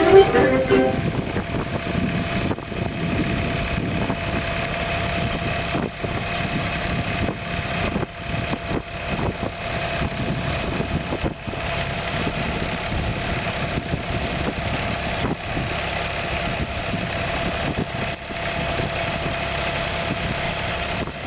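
Yanmar FX22D compact tractor's diesel engine running steadily, with a constant whine over the engine note and small irregular dips in level.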